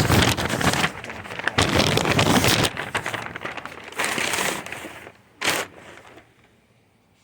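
Loud, uneven rustling and crackling noise that fades after about five seconds, with one last short burst before it goes quiet.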